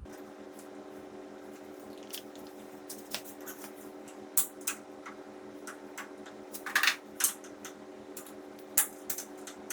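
Scattered clicks and clacks of metal parts and tools being handled on a workbench, a few louder ones around the middle and near the end, over a steady hum.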